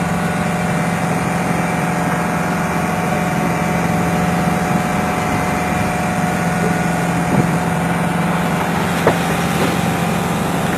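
Tuna fishing boat's engine running at a steady, unchanging drone, heard on board. Two short knocks sound in the second half.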